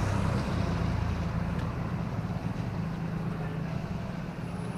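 Steady low rumble of road traffic in a city street, with an even hiss over it.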